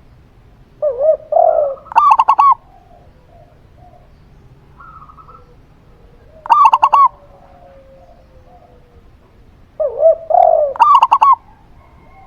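Spotted dove and zebra dove calling in turn. Low, burry spotted dove coos are each followed by a quick run of higher, clearer zebra dove coos, three times: about a second in, around the middle (higher coos only) and near the end.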